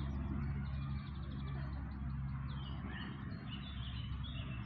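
Small birds chirping, many short high chirps throughout, over a steady low hum.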